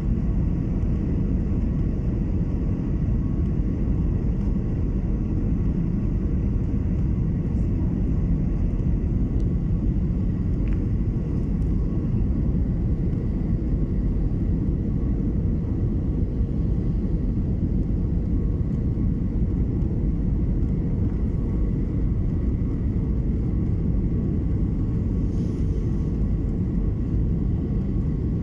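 Steady low rumble of an airliner's cabin noise in flight, with faint steady hum tones above it.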